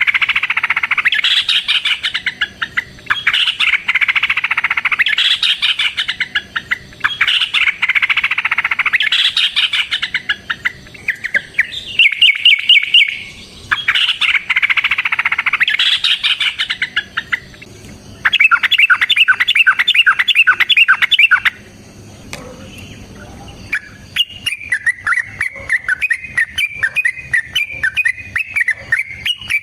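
Yellow-vented bulbul (trucukan) singing: loud, bubbly chattering phrases a couple of seconds long with short breaks, broken by fast rattling trills. Near the end it settles into a steady run of short notes.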